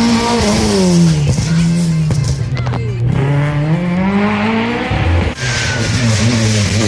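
Rally car engine at full noise. The revs fall as it slows, then climb hard as it accelerates, with a quick gear change about five seconds in, after which it pulls steadily.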